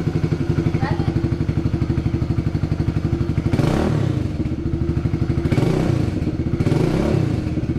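Kawasaki KLX110's small single-cylinder four-stroke engine idling with a steady, even beat, then revved up and back down three times over the second half. The engine is running after an oil change to circulate the fresh oil through the new filter.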